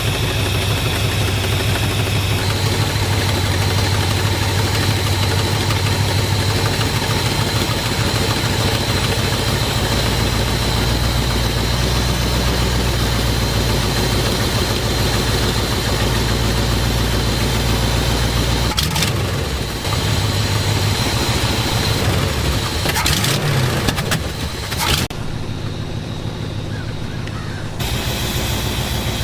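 The 1962 Ford Galaxie's V8 engine runs steadily at idle. The sound shifts abruptly a little past halfway, turns muffled for a few seconds near the end, then returns.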